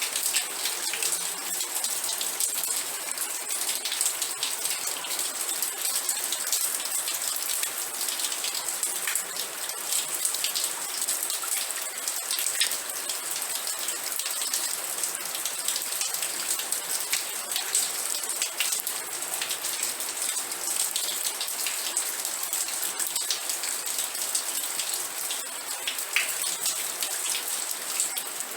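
Steady rain falling, a dense high hiss dotted with many small drop ticks, with no let-up or change.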